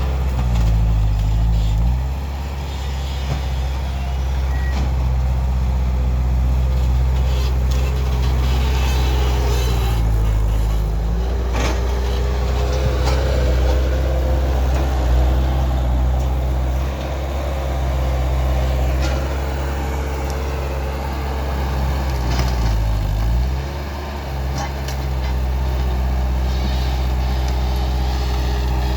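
Skid steer loader's diesel engine running steadily, its pitch dipping briefly three times (near the start, about ten seconds in and about 23 seconds in) before coming back up. A steady whine sits over it from about halfway through, with a few sharp knocks.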